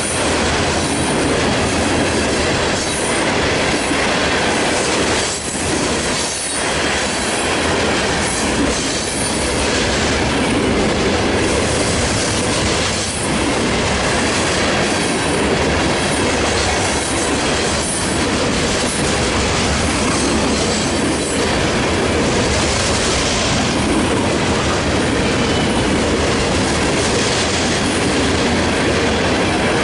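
Freight train cars rolling past at close range, a steady loud rumble and clatter of steel wheels on the rails with scattered clicks from the rail joints.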